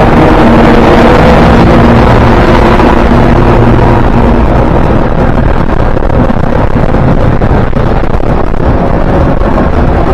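A train passing close by with a loud, continuous rumble. A steady engine or motor hum sounds for the first few seconds and then fades, leaving the rolling noise of the wheels with a run of quick clicks.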